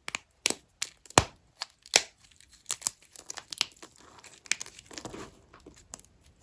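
Dry vintage hotel soap being cut and broken up: a run of crisp, sharp snaps in the first half, then a denser crumbling crackle toward the end.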